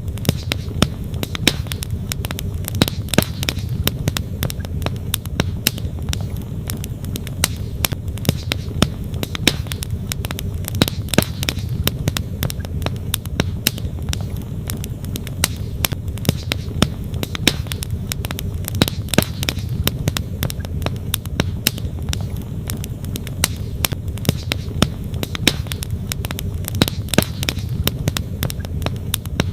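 Campfire wood crackling, with sharp pops at irregular moments, over the steady rush of a flowing stream.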